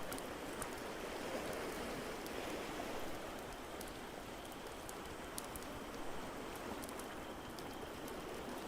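Layered sleep ambience: a steady wash of water noise, with scattered sharp crackles and pops from a wood fire.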